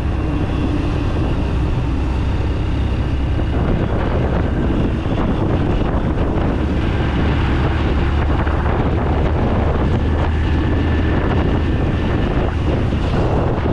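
Motorcycle riding at speed: the engine runs steadily under a rush of wind on the microphone.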